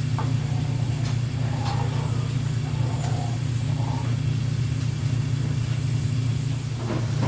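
Steady low mechanical hum with a few faint, short clicks over it.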